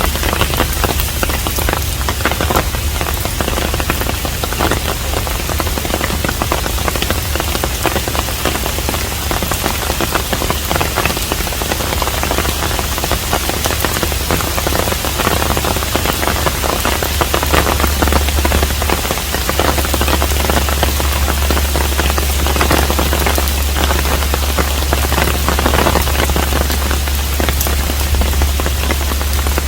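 Steady rain falling on a Korean hanok, a dense patter of drops over a continuous hiss, with a steady low rumble underneath.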